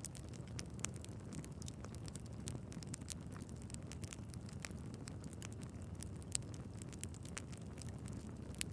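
Wood fire burning in a fireplace: a steady low rush of flames with a continuous scatter of small crackles and pops from the logs, two sharper pops standing out about six seconds in and near the end.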